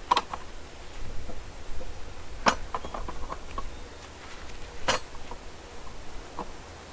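Sharp metallic clicks about every two and a half seconds, three in all, with lighter taps between: steel rebar being worked by hand in a rebar bender.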